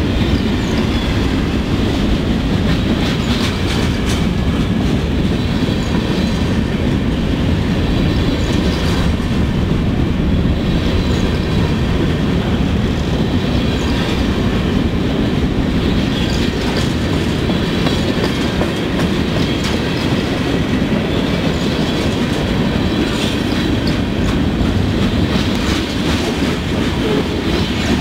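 Freight train of covered hopper cars rolling past close by: a steady, loud rumble of steel wheels on the rails with clickety-clack over the joints.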